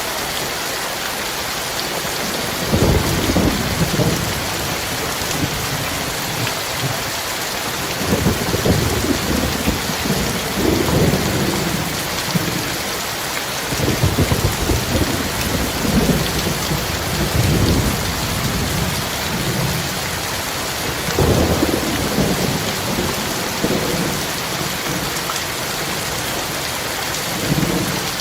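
Heavy rain pouring steadily, with thunder rumbling several times in long low rolls of a few seconds each, the last one short near the end.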